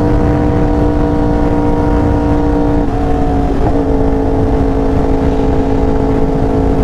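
A motorcycle engine running at a steady, held speed under way. Its note steps slightly lower about three seconds in, over heavy low wind rumble on the microphone.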